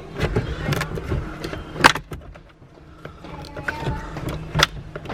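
Scattered clicks, knocks and rattles of dash trim parts and hand tools being handled in a car interior, with the loudest knock about two seconds in and another a little before the end.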